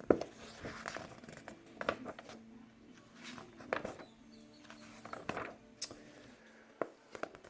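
Paper rustling and handling noise as a picture book's pages are turned, with scattered taps and clicks.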